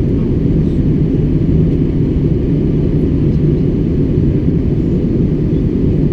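Steady, loud, low roar of an airliner in flight, heard inside the passenger cabin.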